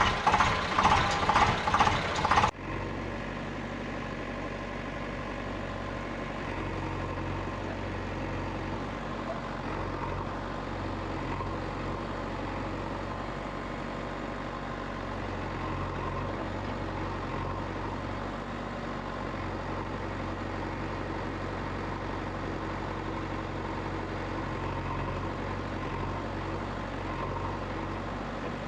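An engine idling with a steady, even hum. A loud rhythmic pulsing, about four or five beats a second, comes before it and cuts off sharply about two and a half seconds in.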